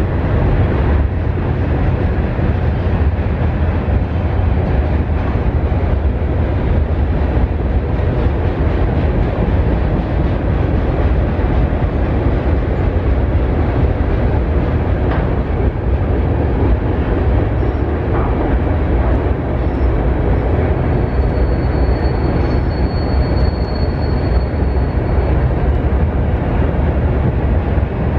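Freight train passing, its cars rolling on the rails with a steady heavy rumble. A faint thin high squeal comes in about three-quarters of the way through.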